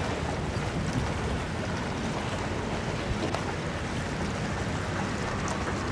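Steady wind and water noise on a sailboat, with wind noise on the microphone.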